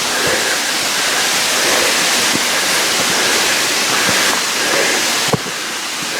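Cascading waterfall rushing steadily. A single sharp knock comes a little past five seconds in, and after it the rush is slightly quieter.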